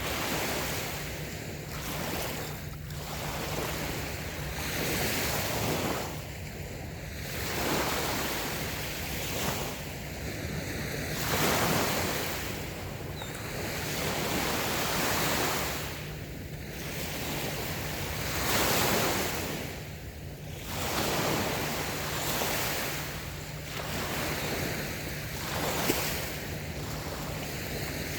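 Small, light waves washing onto a sandy beach, the surf swelling and falling back every few seconds, with a low rumble of wind on the microphone. A brief click comes near the end.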